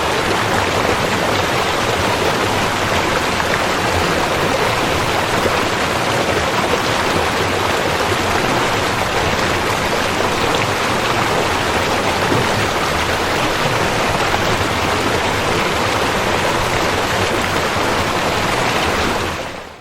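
River water flowing, a steady, even rush with no distinct splashes; it fades out quickly at the very end.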